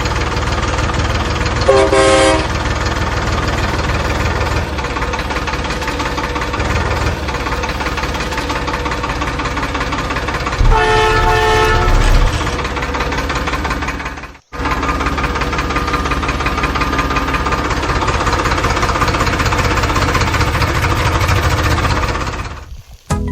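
A vehicle engine runs steadily, with a short horn blast about two seconds in and another about eleven seconds in. The sound cuts out for a moment about fourteen seconds in, then resumes.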